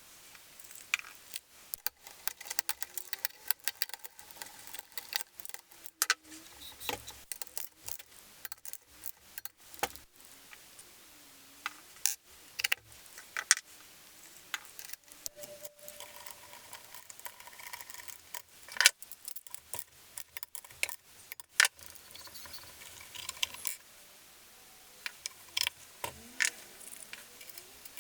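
Workshop sounds of an engine being worked on: many quick, irregular metallic clicks and clinks of hand tools and engine parts, with a few faint short squeaks.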